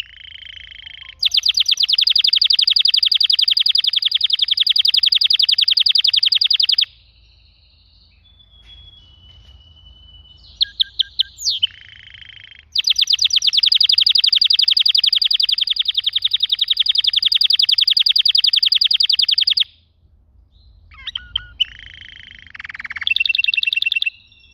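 Domestic canary singing: two long, loud, rapid trills of several seconds each, with shorter whistled notes and sharp chirps between them and another brief phrase near the end.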